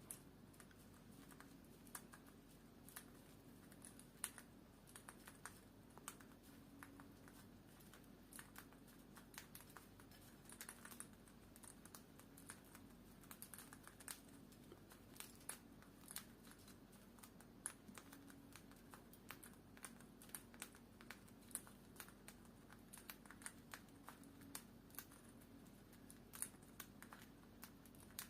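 Rose-ringed parakeets chomping with their beaks, a continuous run of quick, irregular, faint crackling clicks that sounds like a pop-it being pressed or a campfire crackling.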